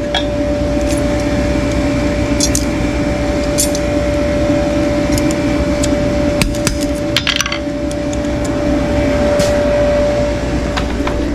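A steady motor hum with scattered sharp clicks and scrapes over it.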